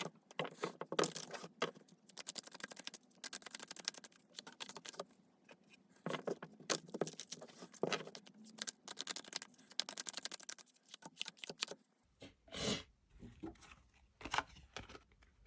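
Tarot cards being shuffled by hand: a dense run of rapid, crisp clicks and rustles. After a break it gives way to a few separate knocks and taps.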